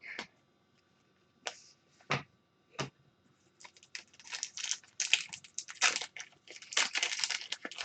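Trading cards and their packaging being handled: three separate light clicks, then from about halfway a quick run of crinkling and rustling, as a card pack is opened and cards are slid out.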